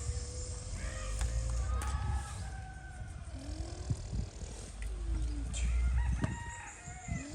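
Several animal calls, each rising then falling in pitch and lasting about a second, over a steady low rumble with a few knocks.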